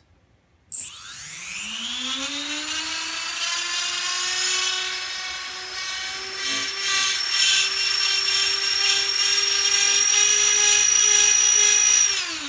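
Four small brushless quadcopter motors, run together from the flight configurator at full power: after a click about a second in they spin up with a rising whine, hold a steady high whine, then spin down quickly near the end.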